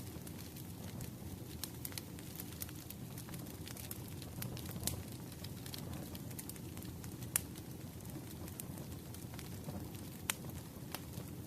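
Firewood burning in a steady low roar, with irregular sharp crackles and pops from the burning logs, a few louder snaps among them.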